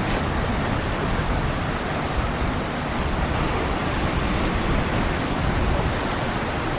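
Steady rush of wind buffeting the microphone over the wash of surf at an ocean inlet, with no distinct boat engine standing out.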